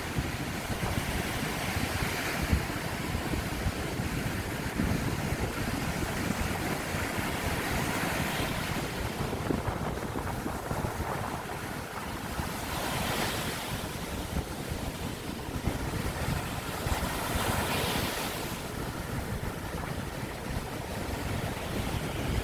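Sea waves breaking and washing up on a sandy beach, the surf swelling about every five seconds over a constant wash, with wind rumbling on the microphone.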